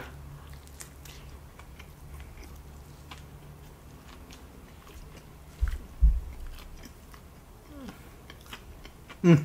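Close-miked biting and chewing of saucy fried chicken covered in chili cheese, with wet mouth clicks throughout. Two low thumps come about six seconds in, and a short hummed voice sound comes near the end.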